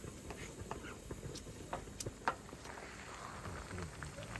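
Rain falling lightly: scattered, irregular drop ticks over a faint hiss, one sharper tick a little past halfway.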